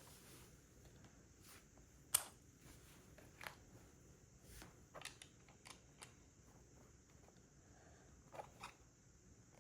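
Faint, irregular clicks of plastic LEGO bricks being handled and pressed together, the sharpest a little after two seconds in.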